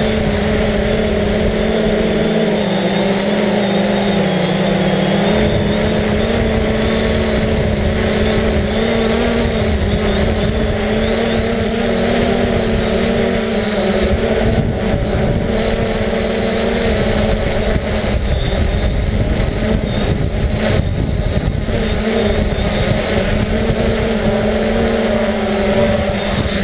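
Quadcopter propellers and motors humming steadily in flight, the pitch wavering slightly as the drone holds against the wind, with wind buffeting the microphone.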